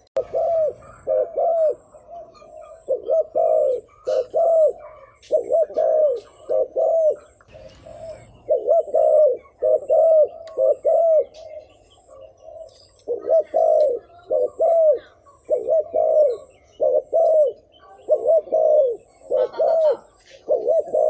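Spotted dove giving rapid repeated coos: short notes that rise and fall, in quick runs with a brief pause about two-thirds of the way through. This is the fast 'gù' cooing that keepers play to lure wild doves.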